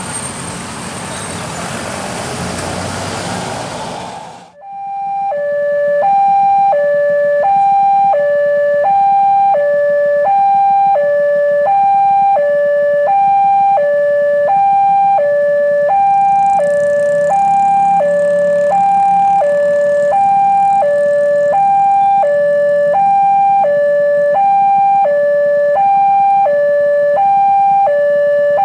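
Railway level-crossing warning alarm sounding a steady two-tone high-low signal, repeating about every one and a half seconds, the signal that a train is approaching the crossing. It is preceded by about four seconds of loud, broad vehicle noise that cuts off abruptly.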